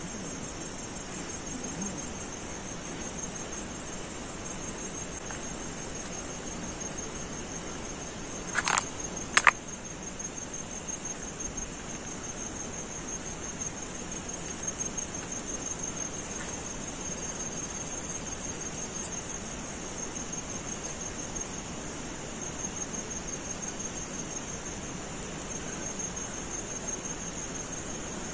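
Crickets chirring in a steady, high, finely pulsed trill over a background hiss. Two sharp clicks or knocks come about nine seconds in.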